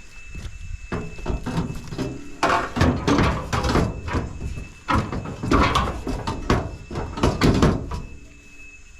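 Scrap metal clanking and banging as pieces are shifted and dropped into a pickup truck bed, a rapid run of knocks and clatter that dies away near the end.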